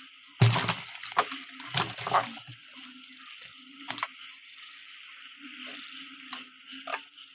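Splashing and sloshing in water, with several sharp knocks in the first few seconds and a few more later, over a steady night chorus of frogs and insects.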